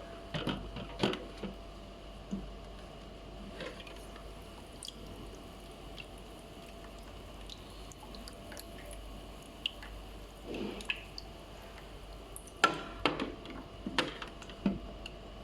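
Water dripping and gurgling inside a humidifier's fish-tank reservoir: irregular small drips and splashes in clusters, over a faint steady hum from the unit.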